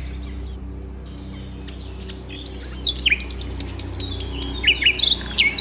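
Songbird singing a run of quick, high whistled notes and chirps, many falling in pitch, starting about two seconds in, over a low steady hum.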